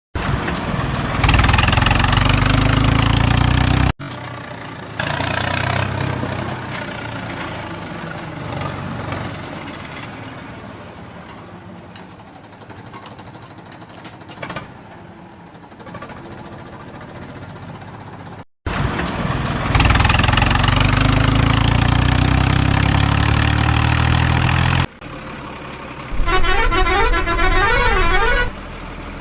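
Vehicle sound effects joined by abrupt cuts: loud stretches of truck-horn honking, a quieter stretch of running-vehicle noise between them, and a short run of quick melodic horn notes near the end.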